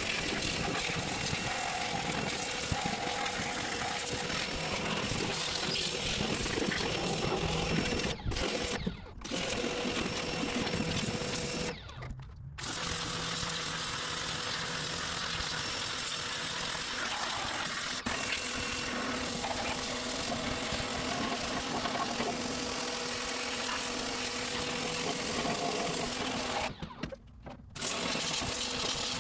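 Pressure washer running and spraying a steady jet of water over a motor hum. The spray stops briefly four times: about 8 and 9 seconds in, near 12 seconds, and near the end.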